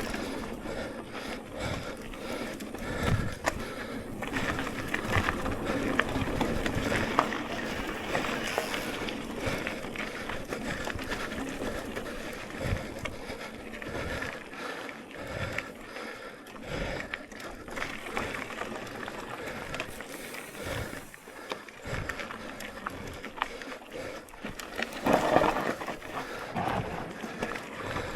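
Electric mountain bike riding over a rough dirt trail: tyres rolling over the ground with frequent knocks and rattles from the bike as it hits bumps and holes, and a louder rush about 25 seconds in.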